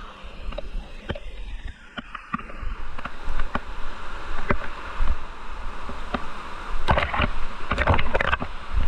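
Flowing river water with splashes and knocks of feet wading and stepping on rocks. A cluster of louder splashes comes near the end.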